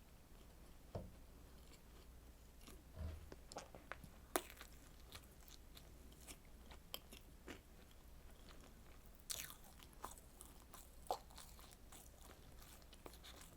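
Close-miked eating of a strawberry dessert: soft biting and chewing made of many small, irregular wet clicks, with a few sharper ones standing out.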